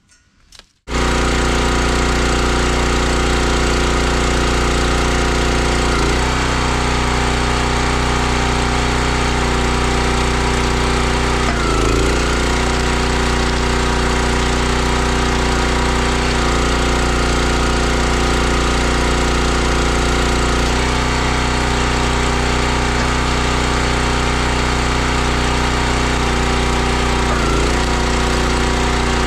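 Gas engine of a 32-ton Country Line log splitter running steadily at speed, its note shifting briefly about every five seconds. It comes in abruptly about a second in.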